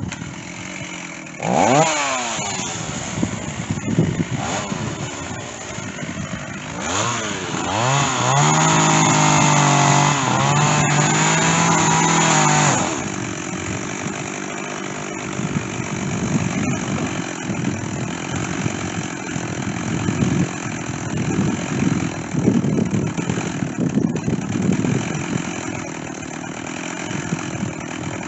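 Stihl chainsaw engine revving up and down in throttle bursts, held at high speed for about five seconds, then falling back to a lower, uneven run near idle.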